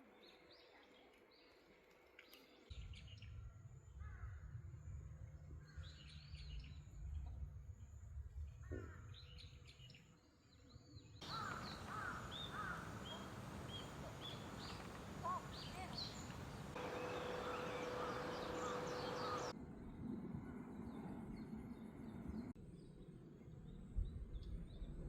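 Outdoor ambience with birds chirping and calling over a low background hiss. The background noise changes abruptly several times.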